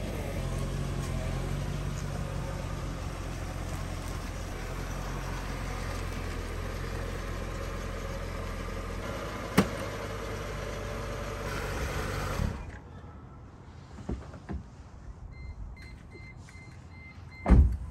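Mercedes-Benz SLK 55 AMG's V8 engine running steadily at low speed, with a sharp click about ten seconds in; the engine cuts off about twelve and a half seconds in. Afterwards come a few light knocks, a repeating two-tone electronic beep, and a loud thump near the end.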